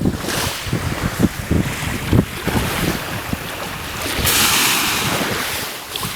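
Sea surf washing with wind buffeting the microphone in low thumps; a louder hissing rush of water comes in about four seconds in and lasts nearly two seconds.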